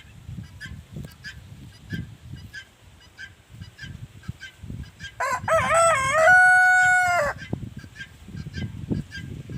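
A rooster crowing once for about two seconds, starting with a wavering rise and then holding a long even note. Short, repeated calls of other birds go on quietly throughout.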